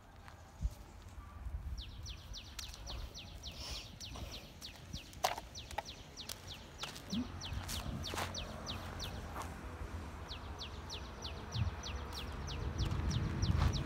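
A bird calling in two long runs of quick, high, downward-sweeping notes, about five a second, with a short break partway through. Scattered faint knocks sound underneath.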